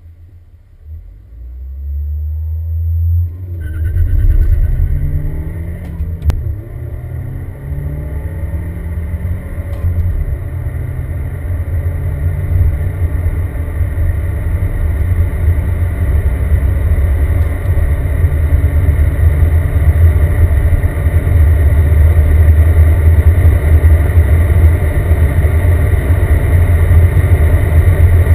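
Supercharged 2.3-litre four-cylinder engine of a Mercedes C230 Kompressor (W202) with manual gearbox, heard from inside the cabin, accelerating hard from a standstill to high speed. The engine pitch climbs and falls back at each upshift, with shifts about four, six and ten seconds in, then a long pull that grows steadily louder.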